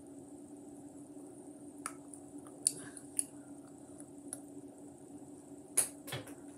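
Someone chewing chocolate: a few scattered, sharp wet mouth clicks over a steady low hum.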